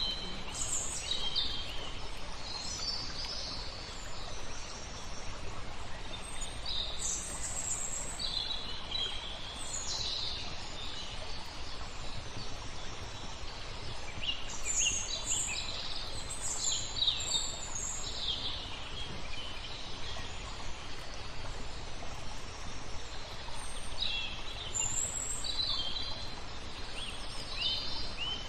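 Small birds chirping and calling in four separate bouts of high, quick notes over a steady rush of flowing water.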